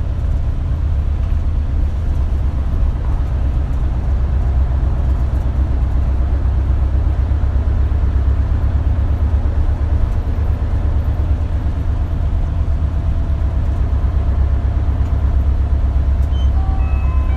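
Isuzu Erga KL-LV280L1 city bus running steadily, heard from inside the passenger cabin: a continuous low engine and drivetrain rumble with road noise.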